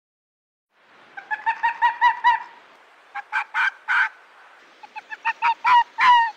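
A bird calling in three bouts of short, pitched calls, several a second, growing louder within the first and last bouts.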